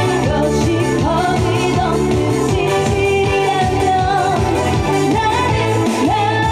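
A woman singing a Korean trot song over a backing track with a steady beat.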